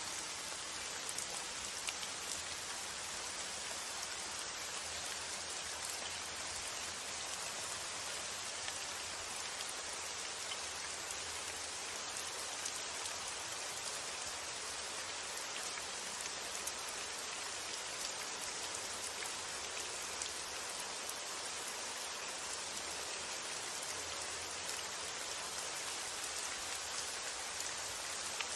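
Steady rain falling: an even hiss of drops, with a few individual drops ticking out above it.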